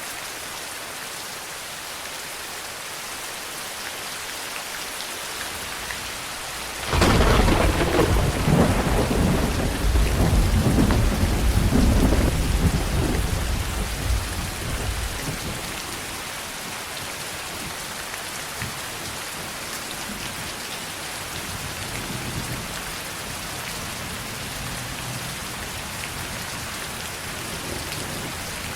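Steady rain falling, broken about a quarter of the way in by a sudden thunderclap that rumbles for several seconds and fades away under the rain.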